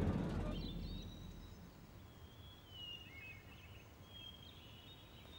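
Faint outdoor ambience with birds chirping: thin, high, wavering calls on and off. A low boom fades out over the first second or so.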